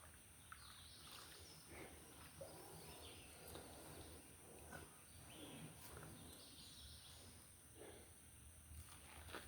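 Near silence: faint outdoor background with a few faint, short chirps scattered through it.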